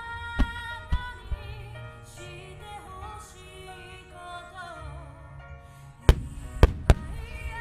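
Fireworks bursting with sharp bangs over music with singing: a few lighter bangs in the first second or so, then three loud bangs in quick succession about six to seven seconds in.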